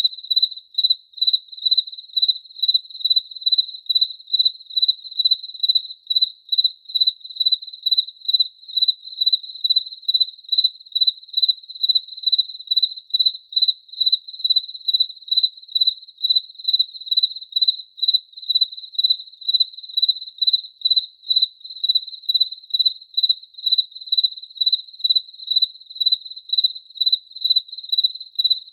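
A cricket chirping: a single high-pitched tone repeated in an even, steady rhythm of about two to three chirps a second.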